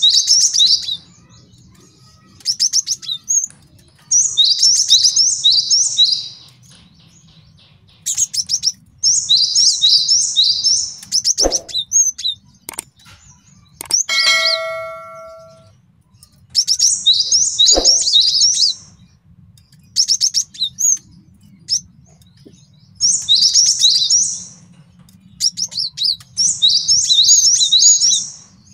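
Male cinereous tit (gelatik batu) singing in bursts of about two seconds of rapid, repeated high notes, separated by short pauses. About halfway through, a single bell-like ding rings out and fades, with a sharp click shortly before and after it.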